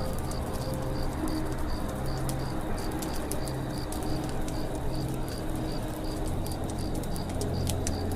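Campfire crackling with irregular sharp pops, over a steady forest ambience that has a short high chirp repeating evenly about four times a second and low, pulsing calls underneath.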